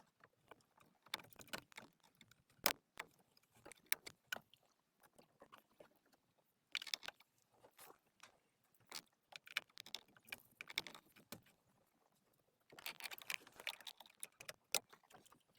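Scattered clicks, light knocks and jangles of tools and car parts being handled during reassembly of a steering column, with brief scraping rustles about a third of the way in and again near the end.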